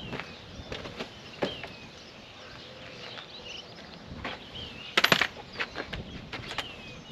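Scattered metal clicks and knocks from work on the loader mounting, with a short, loud rattling burst about five seconds in. Short high chirps repeat in the background.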